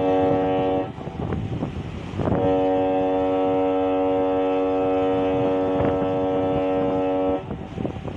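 Ship's horn blowing: a short blast, then about a second and a half later a long steady blast of about five seconds, signalling as the ship comes in to dock. Wind noise on the microphone between and after the blasts.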